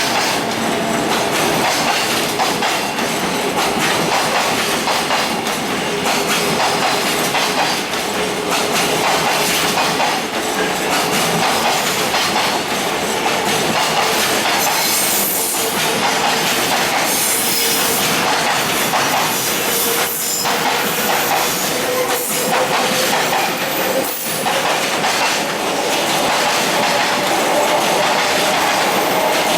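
Container freight train rolling past steadily, its wheels clacking over the rail joints, with a faint squealing tone from the wheels that rises slowly in pitch.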